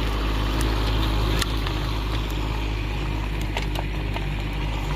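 Excavator's diesel engine running steadily under load while it tows the cable drum on sledges, with a few brief clicks or knocks scattered through it.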